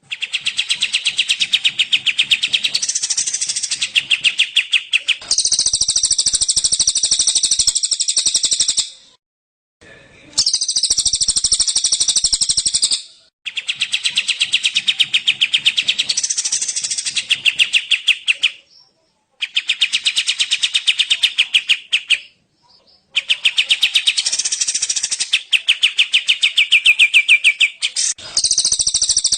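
Small songbirds, the kapas tembak among them, giving long, harsh, rapid-fire trills: high-pitched bursts a few seconds long with brief pauses between.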